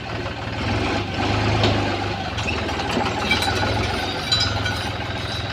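Tractor engine running steadily with a low, even throb, a little louder from about a second in.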